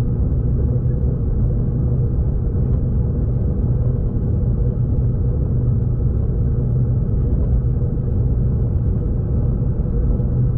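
V/Line passenger train running, heard from on board as a steady, unbroken low rumble.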